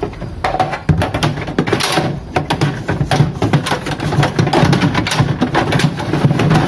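Plastic refrigerator drawer being handled and fitted back into place, with many small knocks and rattles.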